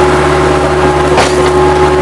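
Bobcat 763 skid-steer loader running steadily at working speed, a constant engine drone with a steady whine over it, and a brief crack about a second in.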